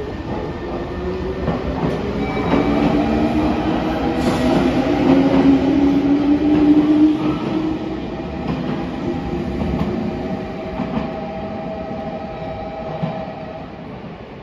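Meitetsu 5000 series electric train pulling out and accelerating past. The traction motor whine rises slowly in pitch, with wheel clacks over the rail joints, and the sound fades as the train draws away.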